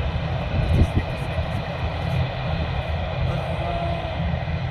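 Jet aircraft engines running with a steady, unbroken rumble.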